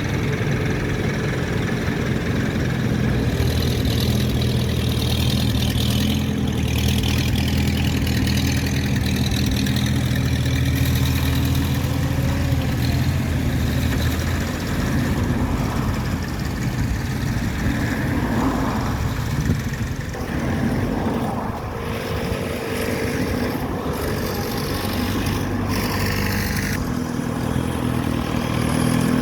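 Engines of tractors and other vehicles driving past, one after another. A low, steady engine note holds through the first half, then gives way to a changing mix of engines, some rising and falling in pitch.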